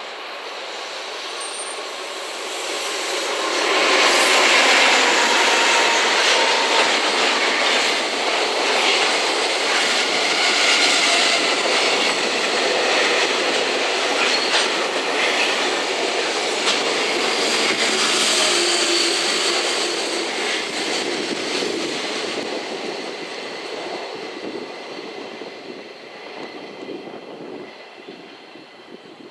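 JR Freight freight train, an EF210 electric locomotive towing a second, unpowered EF210 and a rake of container wagons, passing at speed: wheels rolling and clattering on the rails, with occasional high-pitched squeals. The noise builds over the first few seconds, stays loud, then fades away as the last wagons go by.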